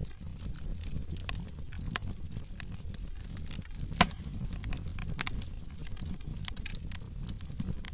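Wood fire in a fireplace crackling: logs burning with a steady low rumble of flames and irregular sharp snaps and pops, the loudest about four seconds in.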